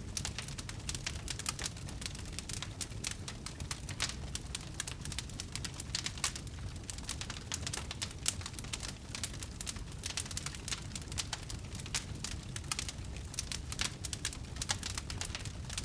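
Wood fire in a fireplace crackling: a dense, irregular stream of sharp pops and snaps over a steady low rumble of the flames.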